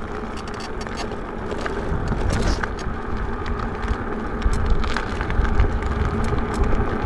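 E-bike riding over a rough road: a steady tyre and wind rumble with many small rattles and clicks from the bike.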